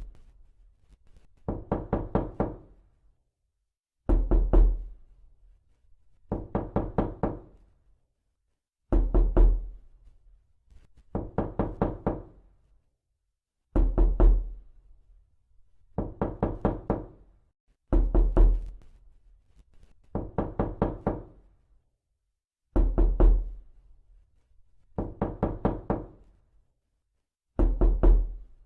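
Rapid knocking in quick bursts of about five knocks, the bursts repeating every two seconds or so with short pauses between them; some bursts open with a heavier, deeper thump.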